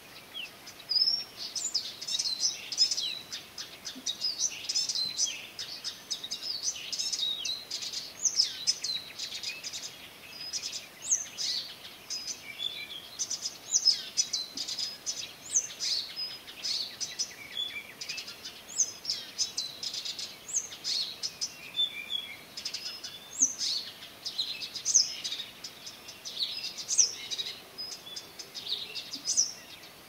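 Songbirds singing at night, a continuous run of quick, varied high chirps and trills that starts about a second in.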